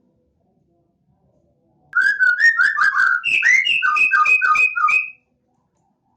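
A caged songbird singing one phrase of about three seconds: quick whistled notes, first a lower run and then higher notes alternating with lower ones, starting about two seconds in and stopping sharply.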